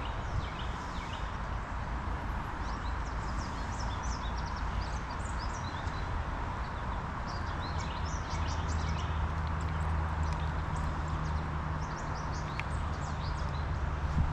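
Wind buffeting the microphone with a low rumble, stronger from about eight seconds in, under a steady outdoor rushing noise, while small birds chirp throughout in many short quick calls.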